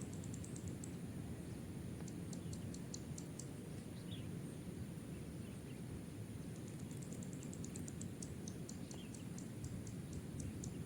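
Outdoor ambience: a steady low rumble under a constant high thin drone, with runs of rapid high-pitched ticks, near the start, again about two seconds in, and a longer run from about seven seconds in. A few faint short chirps are heard.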